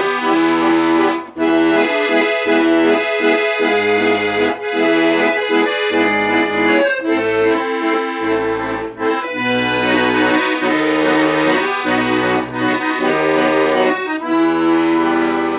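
Accordion playing an instrumental chanson passage: sustained chords over a bass line that moves in steps, without vocals.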